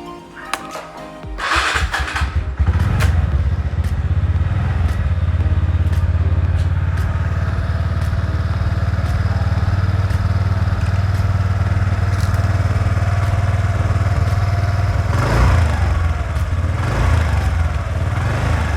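TVS Ntorq 125 scooter's single-cylinder engine started on the electric starter: a brief starter whir about a second and a half in, then the engine catches and idles steadily. It is still running on its old engine oil, which is due for a change.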